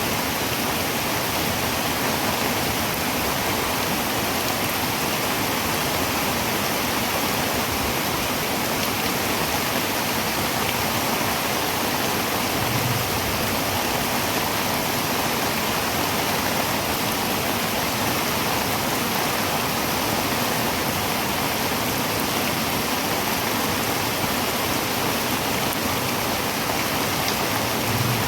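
Heavy rain drumming steadily on a tin roof, a dense, even hiss without a break, with a faint low thump about halfway through and another near the end.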